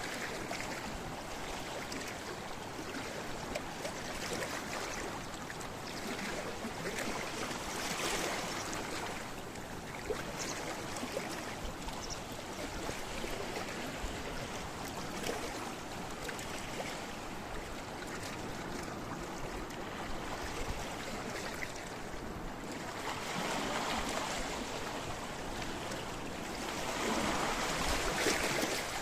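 Sea waves washing against a rocky shore, a steady rush of water that swells as waves break, most strongly near the end.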